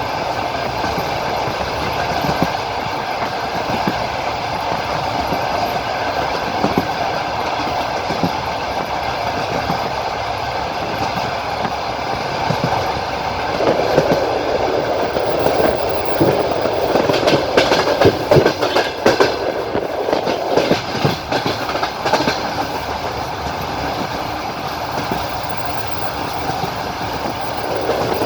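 Passenger train running, heard from inside the carriage: a steady rumble of wheels on the rails with the clickety-clack of the wheels over rail joints. From about halfway in, for several seconds, the clatter turns louder and busier, then settles back to the steady run.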